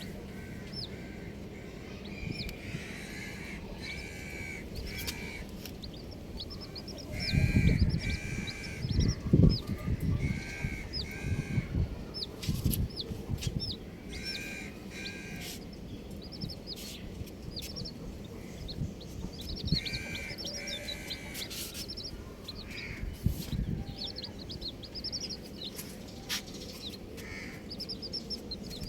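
Baby chicks peeping: many short, high chirps falling in pitch, in quick succession, with a few lower calls in pairs. Low thumps come and go around the middle.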